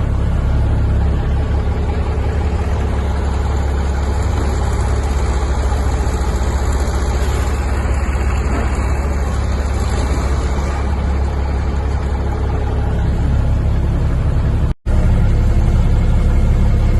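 Heavy vehicle's engine running steadily with a deep, low drone. It cuts out for an instant near the end and comes back slightly louder.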